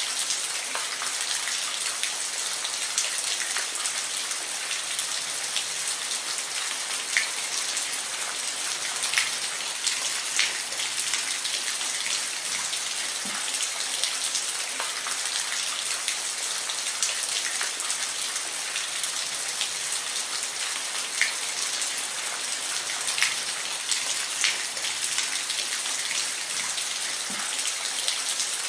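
Steady rain falling, a continuous hiss with scattered louder drops striking a surface now and then.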